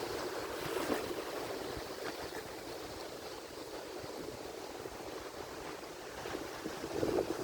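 Ocean surf: waves washing and breaking on the shore in a steady rushing hiss. It swells about a second in, eases off, then surges louder with another breaking wave near the end.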